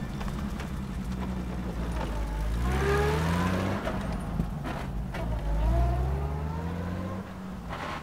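Motor vehicle engines running with a steady low rumble, revving up twice with rising pitch, as when cars accelerate past.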